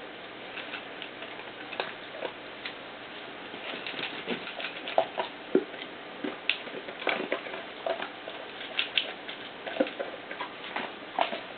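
Litter of nearly three-week-old puppies moving about, with many short irregular clicks and scratches and brief faint squeaks, busiest from about four seconds in.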